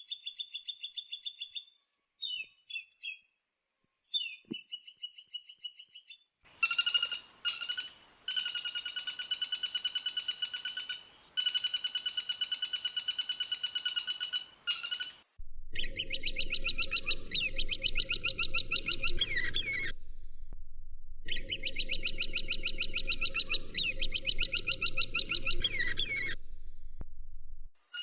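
Woodpecker calls: a series of fast, high-pitched rattling trills, each lasting one to several seconds, with short gaps between them. In the later calls a low steady background hum runs beneath.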